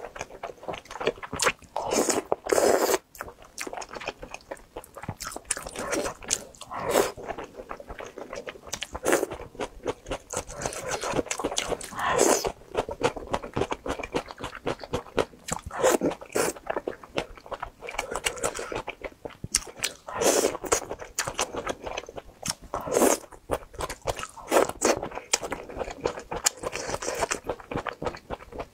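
Mouth eating sounds: irregular wet chewing and biting of broth-soaked fried dough stick (youtiao) and noodles from a bowl of spicy malatang.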